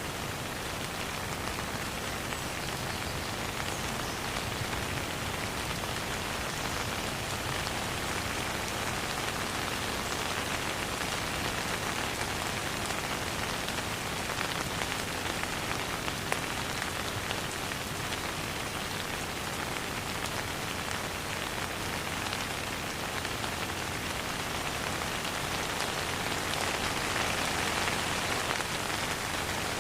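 Steady rain falling, a dense even patter of drops on a surface with no thunder.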